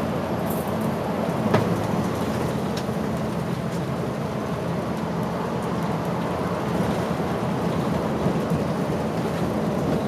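Route bus heard from inside the cabin: the diesel engine running steadily under a constant hiss of road and cabin noise, with a single short click about a second and a half in.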